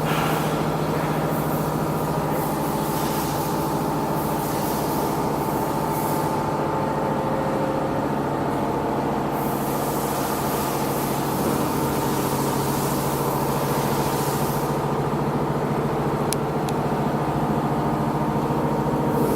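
250 kW Shangchai diesel generator set running at a steady speed, a constant engine hum with a hiss above it that comes and goes.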